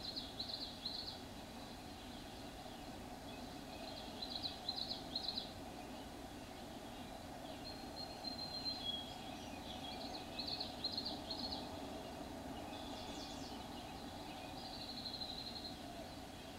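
Birds chirping: short runs of quick high chirps, repeated every few seconds, with one thin whistled note about eight seconds in, over a steady low background hum.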